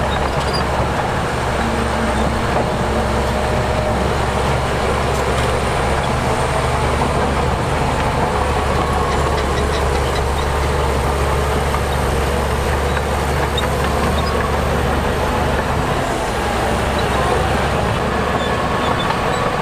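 Heavy diesel earthmoving machinery, a bulldozer and dump trucks, running steadily under load, with faint whining tones that drift slowly up and down in pitch.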